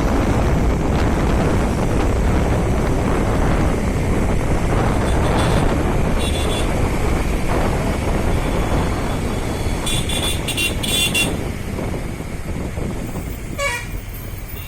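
Wind buffeting the microphone and traffic noise on a motorbike ride, with a vehicle horn honking in a few short beeps about ten seconds in and fainter honks earlier.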